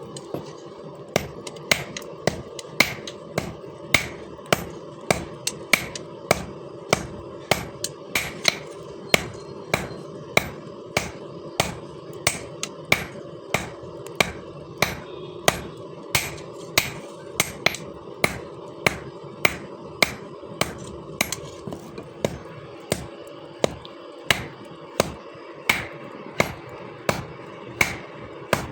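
Hand hammer striking steel on an anvil in an even rhythm, about one and a half blows a second, each with a short metallic ring, over a steady hum.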